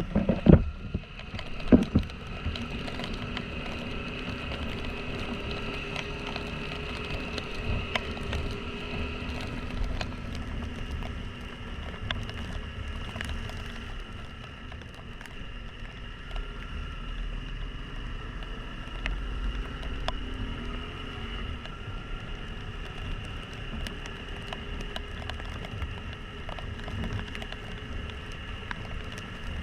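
Yamaha XTZ 150 Crosser single-cylinder engine running steadily as the motorcycle is ridden in the rain, with a low rumble of wind and road noise. A couple of sharp knocks come in the first two seconds.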